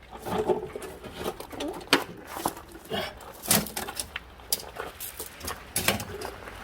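Irregular sharp clicks and knocks of tools and metal parts being handled during forklift reassembly, with a bird cooing near the start.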